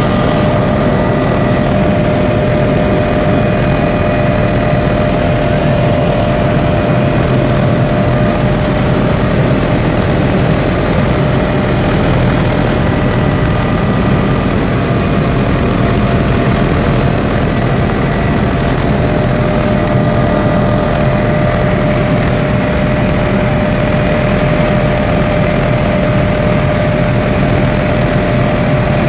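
Helicopter in flight: loud, steady engine and rotor noise with a constant whine.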